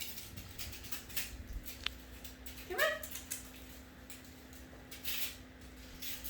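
Siamese kitten giving one short, rising mew about three seconds in, among light scattered taps and clicks.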